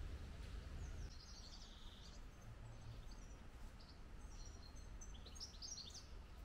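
Small birds chirping faintly, in short high twittering phrases: a run about a second in and more from midway to near the end, over a low, steady outdoor background rumble.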